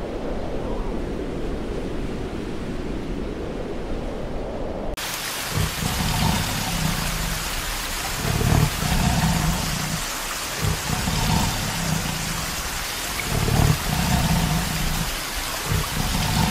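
For about five seconds, a low steady rumble of wind and road noise from a moving car. It cuts suddenly to a steady rush of falling water, over which a white tiger growls low again and again, each growl about a second long, every one to three seconds.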